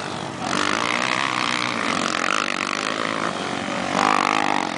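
Motocross bike engines revving on the track, their pitch rising and falling, swelling louder about four seconds in.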